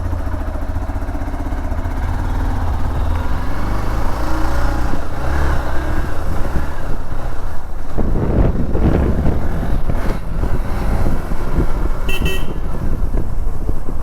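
Hero XPulse 200 Rally Edition's single-cylinder engine running at low revs, then turning louder and rougher about eight seconds in as the bike gets going. A horn toots briefly about twelve seconds in.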